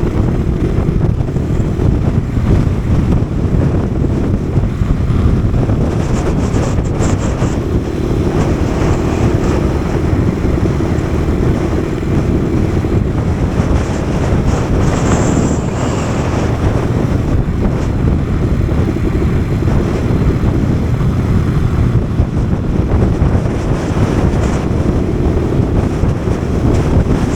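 Kawasaki KSR110's small single-cylinder four-stroke engine running on the move, mostly buried under heavy wind rush on the microphone in a strong wind. The engine's steady note shows through faintly at times, while the wind buffeting is the loudest sound.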